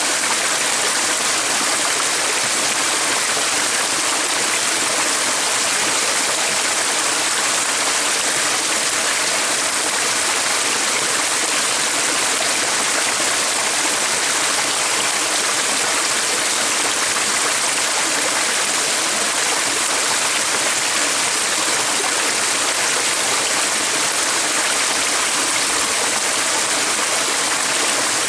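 Flowing stream water, a steady, even rush with no breaks or changes.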